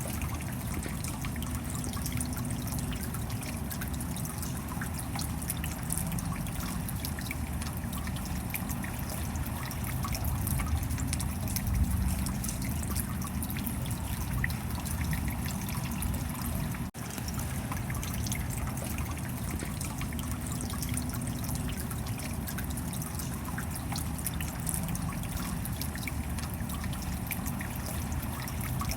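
Steady rain with water trickling and many small drops pattering. The sound cuts out for an instant a little past the middle.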